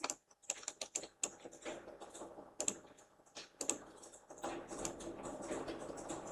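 Computer keyboard keys clicking in irregular taps, as when pressing shortcut keys. A faint steady hum follows in the second half.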